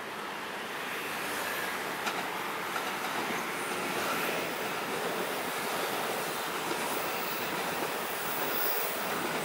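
A train running past on the rails: a steady noise of wheels on track that grows a little after about a second, with a sharp click about two seconds in.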